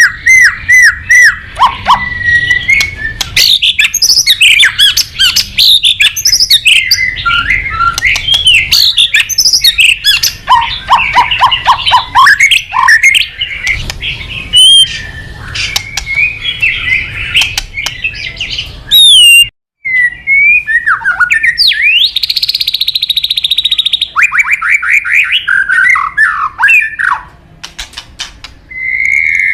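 White-rumped shama (murai batu) singing loudly, a long, varied run of whistled notes sliding up and down and rapid trills. The song breaks off briefly about two-thirds of the way through.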